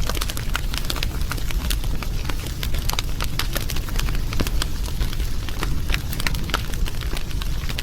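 Wood fire crackling, with many sharp irregular pops and snaps over a steady low rumble of the flames.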